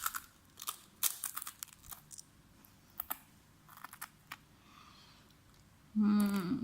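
Crisp crunching of a tortilla chip being bitten and chewed: a run of sharp crunches in the first two seconds, then a few scattered ones around three and four seconds in.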